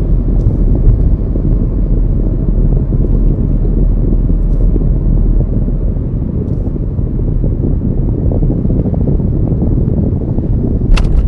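Car being driven: a steady low rumble of road and engine noise with wind buffeting the microphone, and a sharp click near the end.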